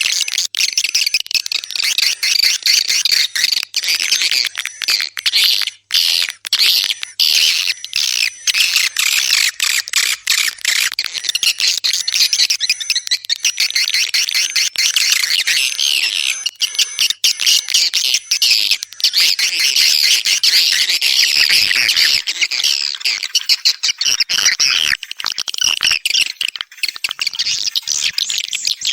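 Swiftlet calls: a dense, continuous twittering of many high chirps, mixed with rapid clicks.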